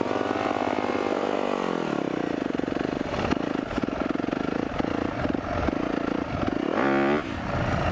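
Four-stroke motocross dirt bike engine running under way. Its pitch drops about a second in as the rider rolls off, holds steady, then rises and falls quickly near the end on a short burst of throttle.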